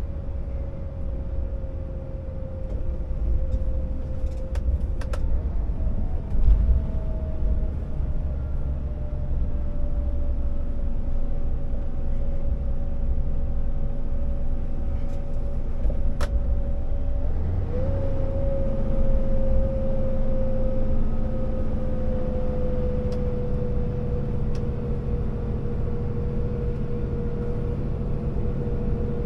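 Scania R650 timber truck's V8 diesel engine running under heavy load with a steady low rumble. Its note sinks slowly and jumps up sharply twice, about five seconds in and again near seventeen seconds. A few sharp clicks come near the first jump and again around sixteen seconds.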